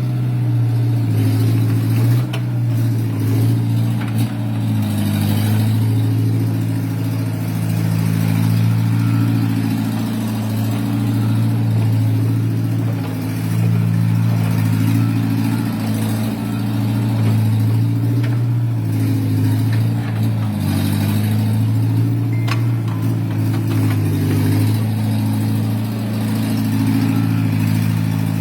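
JCB excavator's diesel engine running steadily under working load, its note rising and falling a little, with a few sharp knocks of the machine at work.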